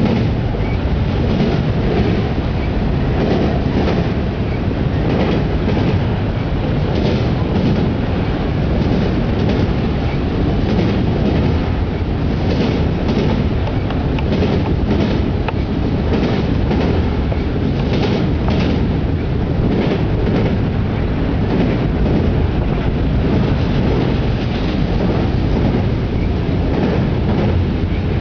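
Autorack freight cars rolling past on steel rails: a steady loud rumble with the wheels clicking over rail joints again and again.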